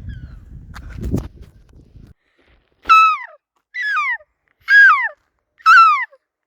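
A low rumble, like passing traffic, for the first two seconds, then four loud calls from a seagull about a second apart, each one falling in pitch.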